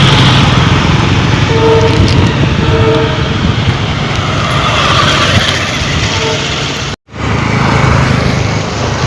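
Passenger train running on the track, a loud steady rumble of wheels and carriages. The sound breaks off briefly just before seven seconds in.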